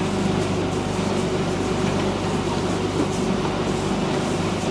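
A boat's engine running steadily, with a constant drone and a wash of hull and water noise, heard on board.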